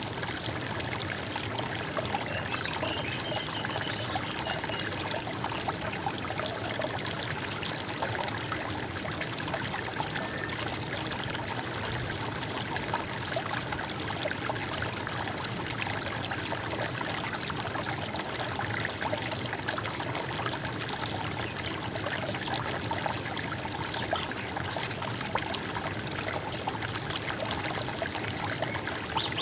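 Running water gurgling steadily, like a stream flowing over stones, an even, unbroken rush.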